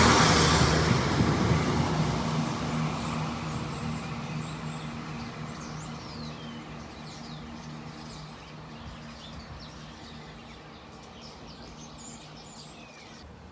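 Class 171 Turbostar diesel multiple unit pulling away and fading into the distance, its low engine drone dying down over the first several seconds. Birds chirp as it fades.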